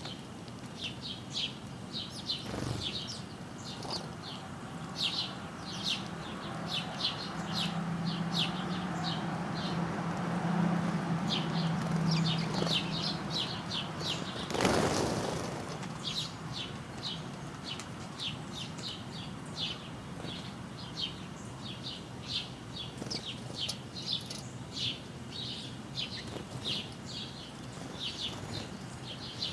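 Small songbirds chirping: short, high chirps repeated one after another. About halfway through there is a brief whooshing rush, and a low hum sits under the first half.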